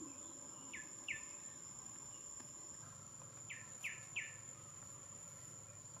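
Wild bird chirping in short, quickly falling notes, two about a second in and three more in quick succession near the four-second mark, over a steady high-pitched insect trill.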